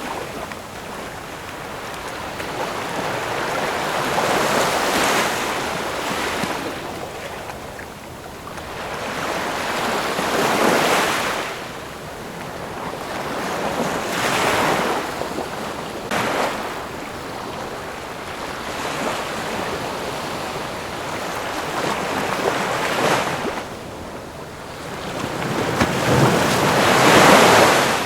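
Ocean waves breaking on a shore, the surf swelling and receding in surges every few seconds, with the loudest wave near the end.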